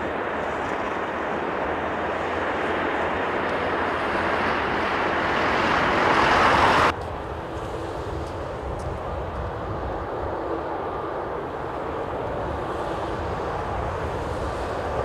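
Twin-engine jet airliner on approach, its engine noise a rushing roar that grows louder as it comes closer, then cuts off abruptly about halfway through. After the cut there is a quieter steady rushing noise with faint steady tones.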